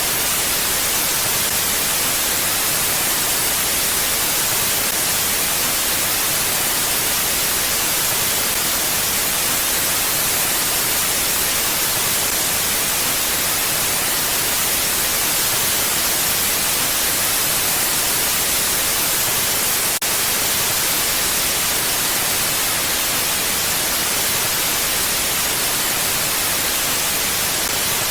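Steady hiss of mountain wind, even and unchanging with no gusts or swells, strongest in the high treble. A momentary dropout about twenty seconds in.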